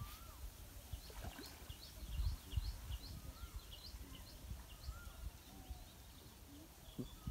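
Birds calling: a quick series of short, high chirps through the middle of the stretch, and a whistled note that rises and falls, repeated every couple of seconds. Low thuds and rumble underneath, loudest about two and a half seconds in.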